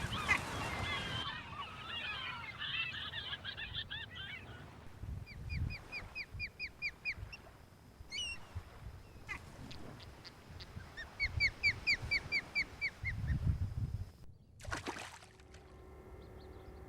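Wetland waterbirds calling: a dense chorus of overlapping calls, then two runs of about eight quick repeated calls each, a few seconds apart. Near the end comes a short burst of noise, then a steady hum.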